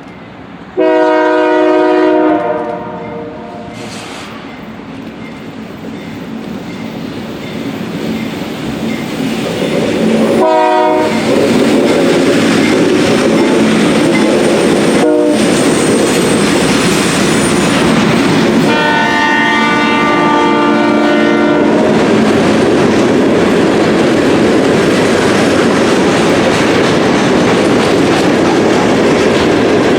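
Diesel freight train's locomotive air horn sounding a long blast, then a short blast about ten seconds in and another long blast around twenty seconds in, as the train comes up and passes close by with a steady loud rumble and clickety-clack of wheels over rail joints.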